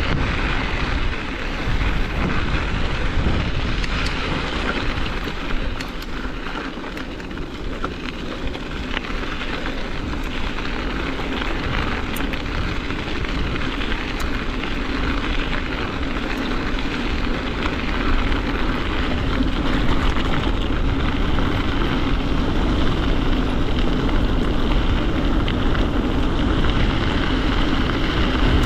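Strong wind buffeting the microphone of a mountain bike being ridden, with tyre noise rolling underneath. The noise eases briefly about a quarter of the way in, then builds again and stays steady.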